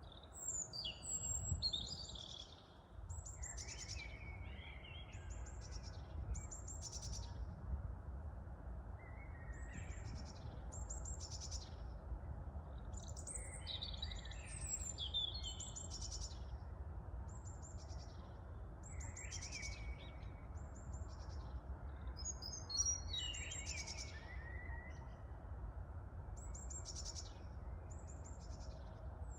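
Small birds chirping and calling over and over, short high notes and trills, over a steady low rumble of wind.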